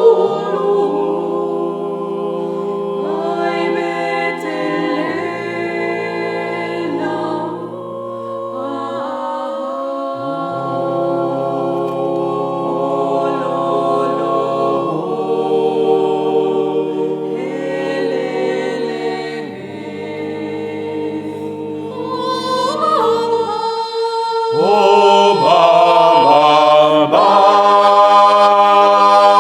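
Vocal ensemble singing a cappella in several parts, with held chords over a sustained low bass line, growing louder about 24 seconds in.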